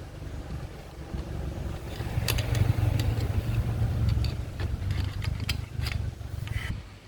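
A small motorcycle engine running, getting louder about two seconds in and easing off near the end, with light clicks over it.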